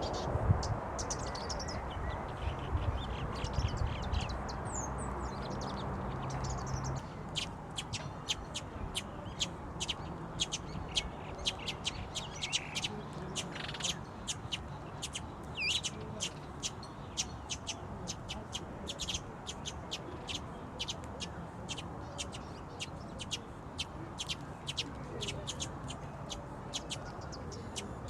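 Birds chirping in quick, short, high notes that keep coming, with a few longer sliding calls in the middle. A low rumble fades out about seven seconds in.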